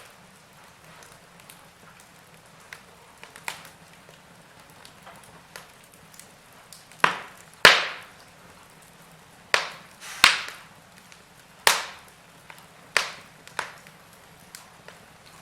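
Log fire crackling: sharp, irregular pops and snaps of burning wood over a faint steady hiss, the loudest cluster of pops coming about halfway through.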